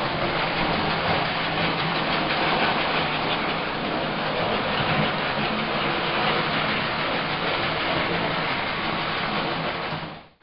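American Flyer S-gauge model train running on its track: a steady rattle of wheels with a faint motor hum, fading out and cutting off right at the end.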